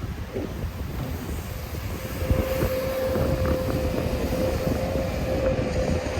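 Low rumble of a heavy vehicle, with a steady whine joining about two seconds in.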